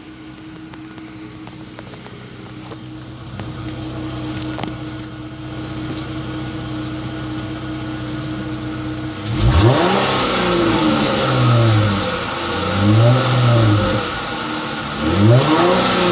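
2017 Dodge Charger SE's V6 engine running steadily at idle, then revved several times from about halfway in, each rev rising and falling back.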